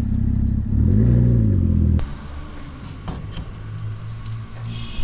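Car engine idling, then revved once about a second in, its pitch rising and falling back. It cuts off abruptly at two seconds, leaving faint clicks and clatter and a brief high squeak near the end.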